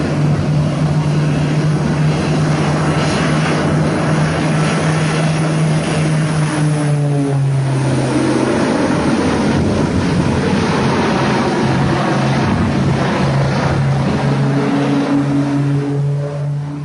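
Aircraft engine drone over loud rushing noise, the pitch dropping about seven seconds in and rising back near the end.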